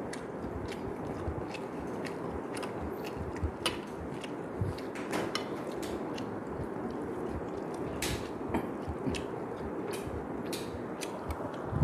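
Mouth sounds of someone eating fish head soup: chewing with scattered short sharp clicks and smacks over steady background noise.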